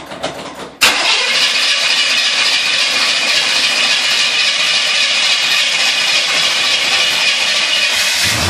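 A 1938 Chevrolet hot rod's engine being started after sitting for months: a sudden loud onset about a second in, a steady loud sound for several seconds, and a deeper low rumble joining near the end as it settles toward idle.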